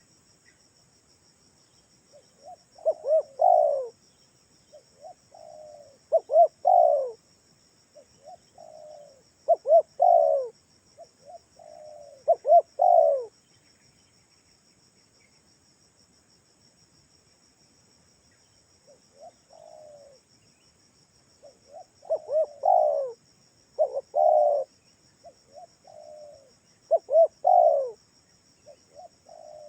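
Spotted dove (tekukur) cooing: phrases of a few soft coos ending in louder ones, repeated about every three seconds, with a pause of several seconds midway. A steady high insect buzz runs underneath.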